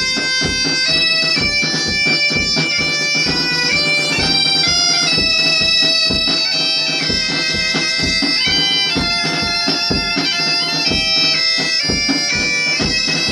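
Bagpipe playing a tune over its steady drone, with a drum keeping a steady beat about twice a second.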